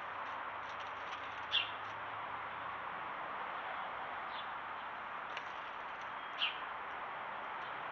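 A few short bird chirps, the two loudest about five seconds apart, over a steady background hiss.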